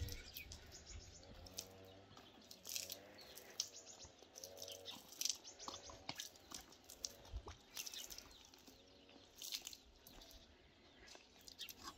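Small birds chirping faintly, short high calls every second or two, mixed with a few faint short pitched calls.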